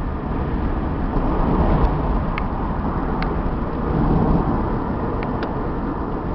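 Steady road noise inside the cabin of a 1996 Chevy Camaro RS being driven along the road: engine, tyres and wind blend into a low, even rumble, with a few faint ticks.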